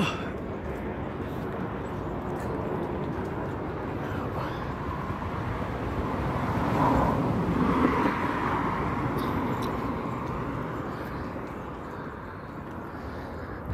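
A passing vehicle's engine and motion noise, swelling to its loudest about seven to eight seconds in and then fading away.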